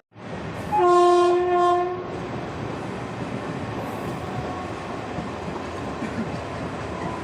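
Indian Railways train horn sounding one steady blast about a second long, over the steady running rumble and clatter of a moving express train.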